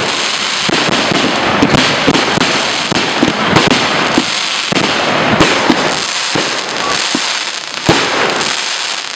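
Fireworks display going off in a dense barrage: many sharp bangs in quick succession over a continuous crackle, easing a little near the end.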